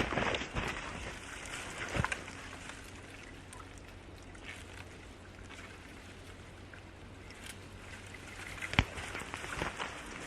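Faint steady outdoor noise, broken by a few sharp knocks: one at the start, one about two seconds in, and a louder one near the end.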